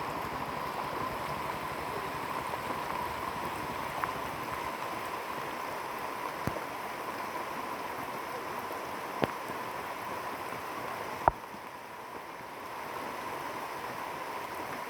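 Steady hiss of heavy rain, with a faint steady tone under it and a few sharp taps. The loudest tap comes about eleven seconds in, after which the hiss dips briefly.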